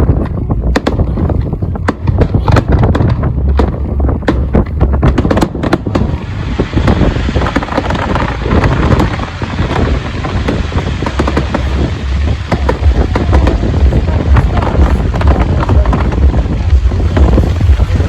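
Fireworks going off in a rapid string of sharp bangs and crackles for about the first six seconds, then a denser, continuous crackle. Wind buffets the microphone throughout with a heavy low rumble.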